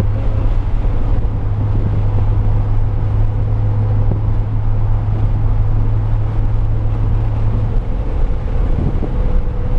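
2005 Pontiac GTO's LS2 V8 engine running at steady revs under power on a race track, a constant low drone with road noise; the drone eases about eight seconds in.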